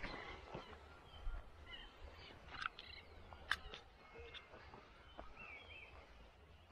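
Scattered faint bird chirps and short whistled calls over a low wind rumble, with a few soft clicks.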